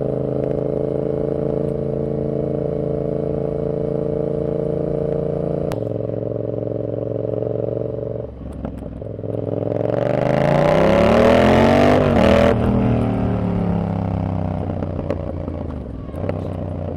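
Yamaha XSR700 parallel-twin motorcycle with a short aftermarket exhaust, cruising at a steady engine note. About eight seconds in the throttle briefly closes. The bike then accelerates hard, the engine note climbing to its loudest around twelve seconds in before it falls away as the rider eases off.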